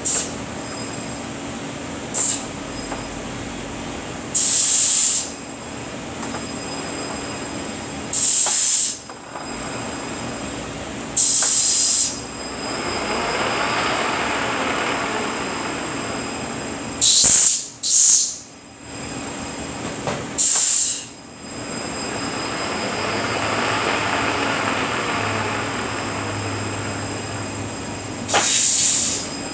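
Rebuilt Eaton EEO-18F112C automated truck transmission running on a test dyno with a steady hum, broken by about nine short, sharp hisses of air. Twice, gear noise swells up and falls away again as the speed rises and drops.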